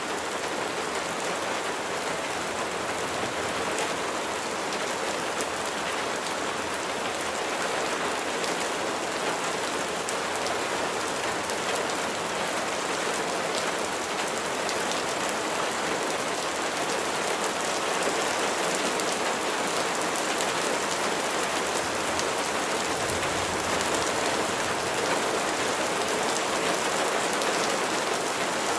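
Steady rain falling, a dense hiss with many individual drops pattering on a surface.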